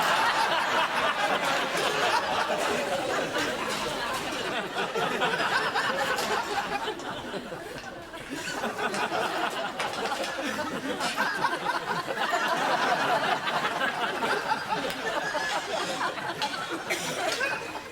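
A group of many voices talking over one another and laughing, with a brief lull about eight seconds in.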